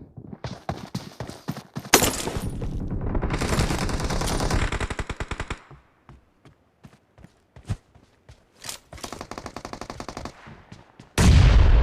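Video-game automatic gunfire: a long burst of rapid shots, then scattered single shots, then a second rapid burst, with a sudden loud blast near the end.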